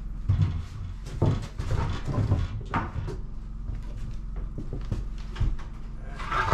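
Several knocks and clunks as one side of a heavy old woodstove is lifted and pieces beneath it are pulled out. The loudest clunk comes near the end.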